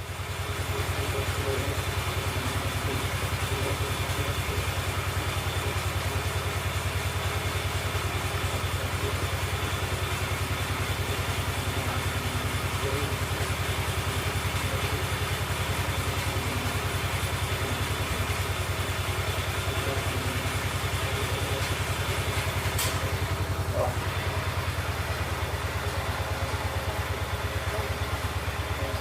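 Kohler K-series single-cylinder engine of an old Ford garden tractor running steadily at a constant speed, with a fast even firing pulse. A single sharp click sounds once late on.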